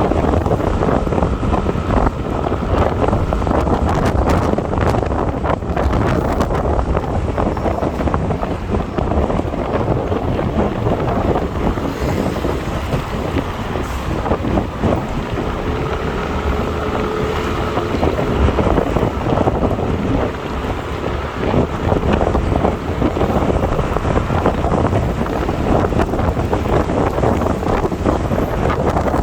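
Wind buffeting the microphone on a moving motorbike, over steady engine and road noise.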